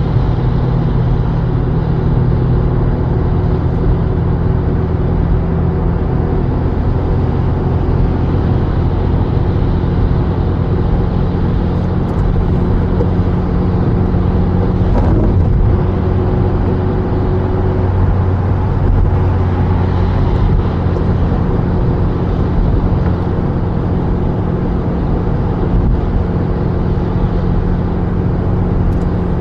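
A car driving, with a steady engine hum and road noise. There is a brief faint click about halfway through.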